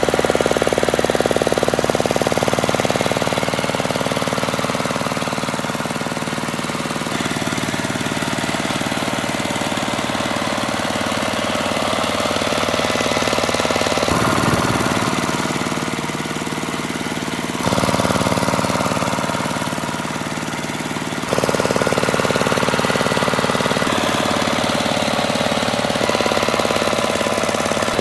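The rebuilt Z1100 engine running steadily after its restoration, with a hard, knocking beat. It is heard in several joined clips, so the sound changes abruptly a few times.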